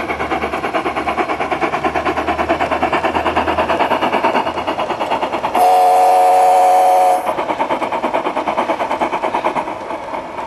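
Sound card of a radio-controlled Accucraft K27 Mudhen model locomotive playing rapid, even steam-exhaust chuffs as it runs. About halfway through, the card's American chime whistle sounds one blast of about a second and a half. After that the chuffing carries on, a little softer.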